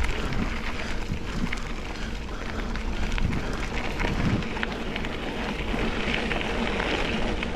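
Mountain bike rolling along a dirt and gravel trail: a steady tyre crunch dotted with small clicks and rattles from the bike, with wind rumbling on the microphone.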